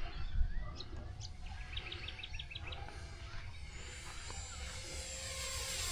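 A small bird chirping, with a quick run of about eight chirps about two seconds in. Near the end the electric motor and propeller whine of an E-flite Cirrus SR22T RC plane grows louder as it approaches, its pitch sliding down.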